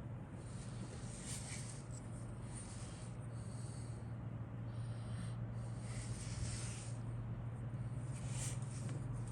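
Intermittent rustling of kit contents being handled, in short bursts every second or so, over a steady low hum.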